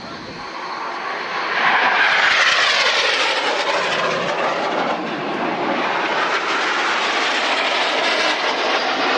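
Jet aircraft of an aerobatic display team, BAE Hawk trainers, flying past. The rushing jet noise swells over the first two seconds into a loud pass, with a sweeping pitch as the jets go by, then stays loud.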